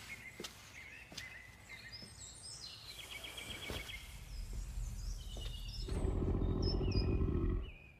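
Birds chirping with a few faint taps. A low rumbling drone swells in the second half and cuts off abruptly near the end.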